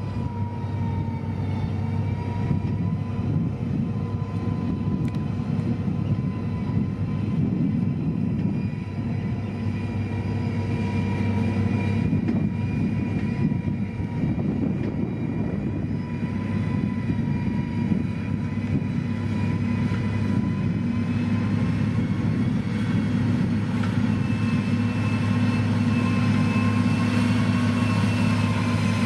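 Motor grader's diesel engine running steadily under load, a low drone with a thin whine over it.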